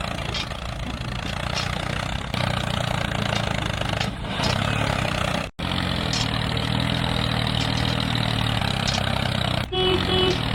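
A motor running steadily, in a few clips cut together, with an abrupt break about five and a half seconds in and another change near the end.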